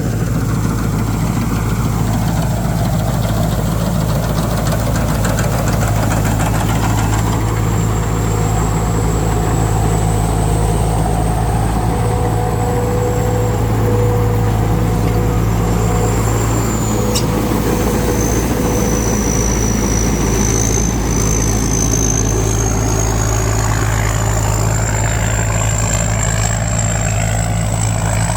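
Combine harvester running steadily under load while cutting thick rice, its engine a constant low drone with a thin high whine that drifts slowly up and down in pitch.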